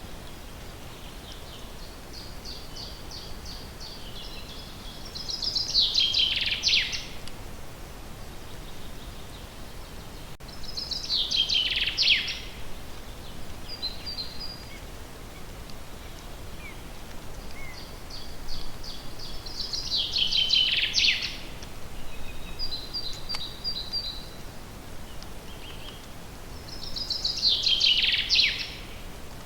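A songbird singing the same song phrase four times, about every seven to eight seconds: each phrase is a quick run of high notes that ends in a falling flourish. A few short, fainter chirps come between the phrases, over a steady outdoor hiss.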